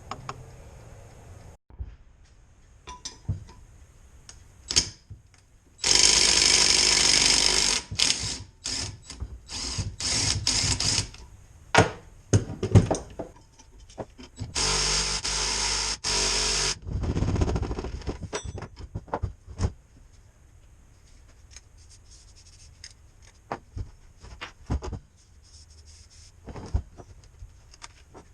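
A power tool run in short bursts, the two longest about six and fifteen seconds in, with scattered clicks and knocks of tools being handled between them.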